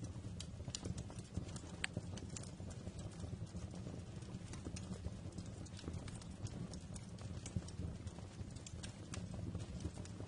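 Wood fire crackling in a fireplace: irregular sharp pops and crackles over a steady low rumble of the burning fire.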